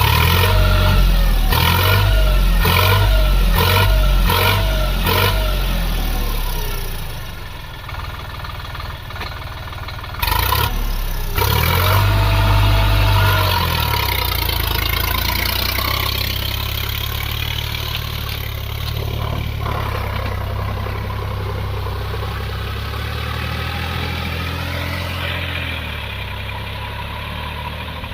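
Sonalika DI-47 RX Sikandar 4WD tractor's diesel engine working under load in low-range fourth gear while puddling in mud. It revs up and down in quick repeated pulses for the first several seconds, surges again about ten seconds in, then settles into steady running that slowly fades.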